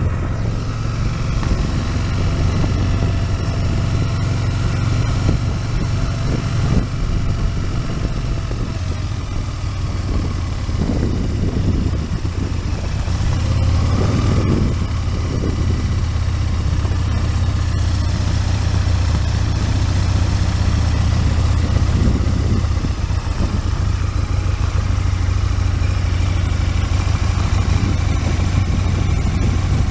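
Aprilia RSV Mille's 60-degree V-twin engine running steadily through its standard exhaust can, with a couple of brief rises in revs about a third and half of the way through.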